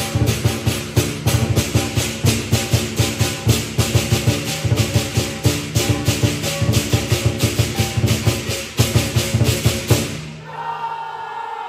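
Lion dance percussion ensemble of drum, cymbals and gong playing a fast, driving rhythm that breaks off about ten seconds in.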